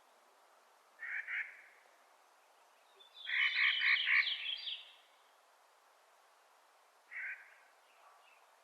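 Clark's nutcracker giving harsh, grating, rapidly pulsed calls: a short call about a second in, a longer run of calls around the middle, and one more short call near the end.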